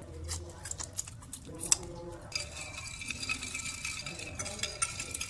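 Close-miked eating sounds of Cambodian donuts being bitten and chewed: a run of crisp clicks and crackles with one sharp click a little under two seconds in, thickening into a denser crackling hiss from about two seconds in until near the end.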